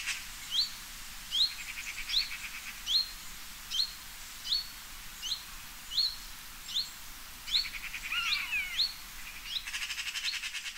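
A bird repeating a short, sharply rising call note about once every three-quarters of a second, with a few bursts of a rapid buzzy trill and one more complex descending call near the end.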